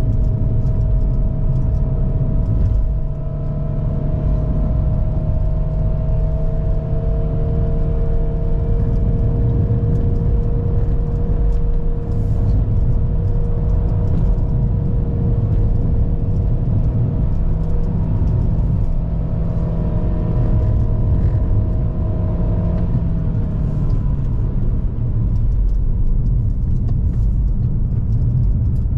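GAC GS3's 1.5-litre naturally aspirated petrol engine pulling hard on a steep uphill climb, struggling a bit under the load. Its drone drifts slowly in pitch, with a brief dip in level about three seconds in and the pitch dropping a few seconds before the end.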